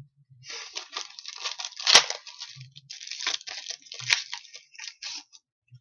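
Hockey trading cards being flipped through and slid against each other: a dry, scratchy rustle made of many short strokes, with two sharp clicks about two and four seconds in.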